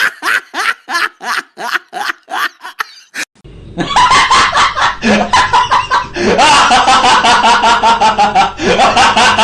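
Laughter in quick rhythmic bursts, then from about three and a half seconds in a louder, longer bout of rapid laughing.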